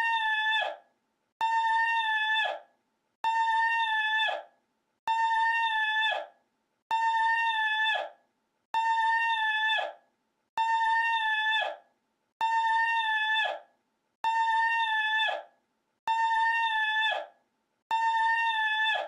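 A single high-pitched, held vocal cry, the same clip looped over and over: each cry lasts about a second on a steady pitch and drops at the end, with a short silence before the next, roughly every two seconds.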